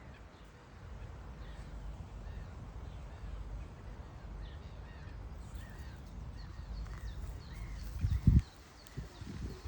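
Birds calling with many short chirps, over a low steady rumble of wind on the microphone, with a loud low bump about eight seconds in.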